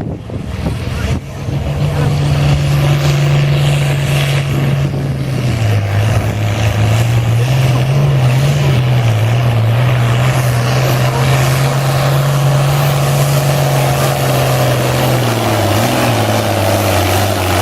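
International Harvester 966 farm tractor's engine running hard under load while pulling the weight sled down the track. Its note holds steady, drops lower and wavers about six seconds in, then holds there.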